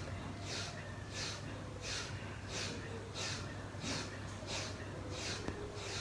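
A man breathing hard and sharply in rhythm while doing push-ups, one quick breath about every two-thirds of a second, under a steady low hum.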